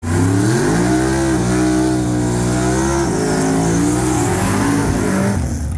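Turbocharged small-block Ford V8 in a Fox-body Mustang drag car, revved up and held at high revs through a burnout. The engine note rises at the start, holds steady with a slight waver, and eases off near the end.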